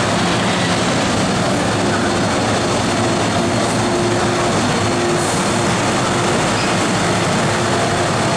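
MTR M-Train electric multiple unit at the platform, a loud steady rumble with a constant hum of several held tones.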